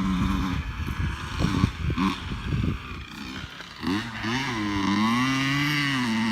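Dirt bike engine running, its pitch rising and falling as it is revved, coming in strongly about four seconds in. Before that there is only a rough, irregular low rumble.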